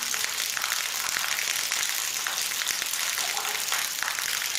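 Steady rain falling, a dense hiss of drops with a fine crackling patter.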